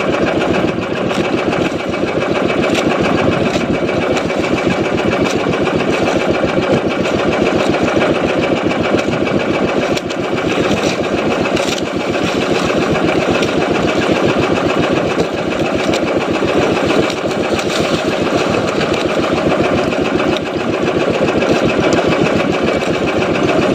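Small fishing boat's engine running steadily under way, loud and close, with a fast even firing rhythm and no change in speed.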